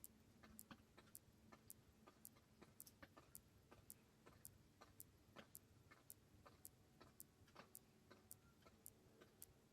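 Faint, regular ticking, a little under two ticks a second, with scattered fainter clicks between the ticks.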